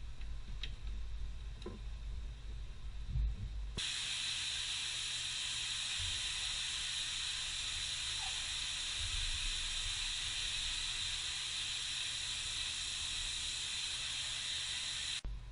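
A steady hiss that starts suddenly about four seconds in, holds even, and cuts off suddenly near the end. Before it there is a low rumble with a few faint clicks.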